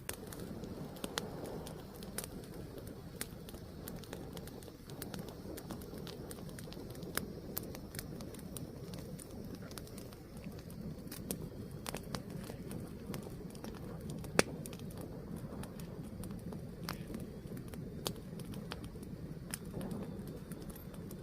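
Wood fire burning: a steady low rumble of flames with scattered sharp crackles and pops, one pop much louder about 14 seconds in.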